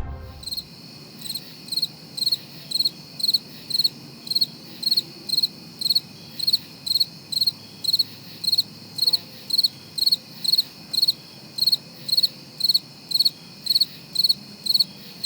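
Crickets chirping in a steady rhythm, about two short trilled chirps a second, over a faint low hiss, cutting off suddenly at the end.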